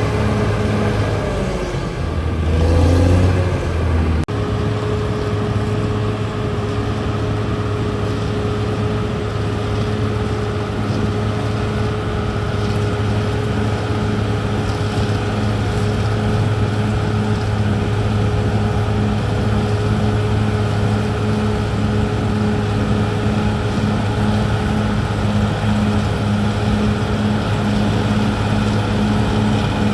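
CAT D6R XL bulldozer's diesel engine running steadily under work. About two seconds in, the low rumble briefly swells and the pitch shifts, then the engine settles back to a steady drone.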